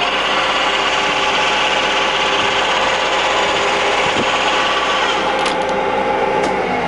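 Stankoimport 16K20 lathe headstock gearing running in its lowest speed range, a loud steady gear whine and rattle. The headstock is generally noisy from general wear. Near the end the pitch drops and a few clicks sound as the drive slows for the speed change.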